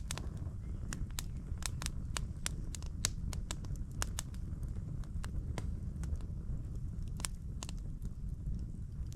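Footsteps of a hiker on the forest floor, with irregular sharp crackling and snapping underfoot over a steady low rumble.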